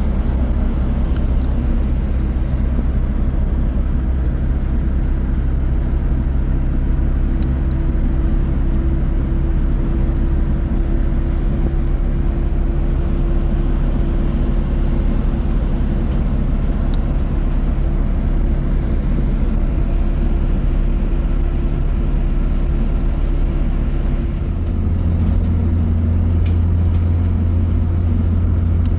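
Motor vehicle engine running steadily with road noise, as when riding in the vehicle; the engine note changes about 24 seconds in, becoming lower and stronger.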